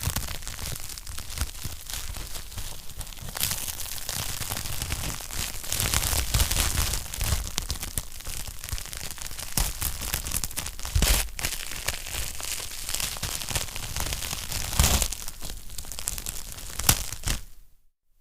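Wood fire burning in a fireplace, crackling steadily, with a few sharper, louder pops from the burning logs. The sound drops away briefly just before the end.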